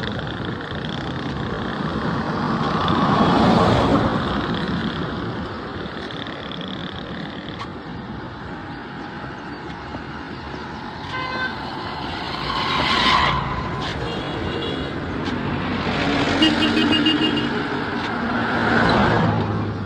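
Road traffic passing close by: several vehicles go by one after another, each rising and fading. A horn toots a few times about halfway through and again near the end.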